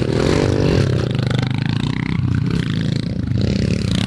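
Pit bike engine revving up and easing back off in the first second, then running at a steady speed.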